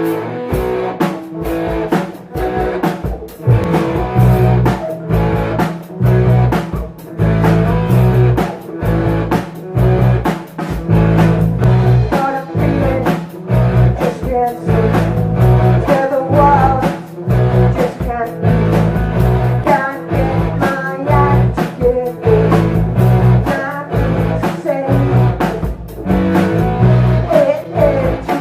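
Live rock band playing: electric guitar over bass and drums, with a steady beat.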